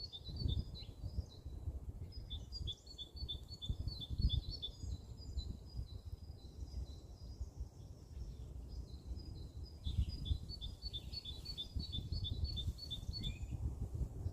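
Small songbirds chirping in quick runs of short, high repeated notes, several a second, in three bursts with pauses between them, over a steady low rumble.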